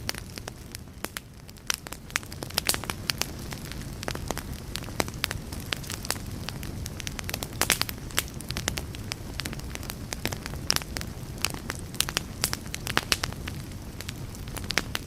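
Wood campfire burning: irregular sharp crackles and pops over a steady low rumble and hiss of the flames.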